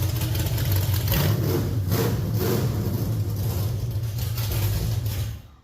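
Jeep-sourced 360 V8 running on a two-barrel carburettor during its first start-up in a dirt late model, with a rough, truck-like note; it shuts off abruptly near the end.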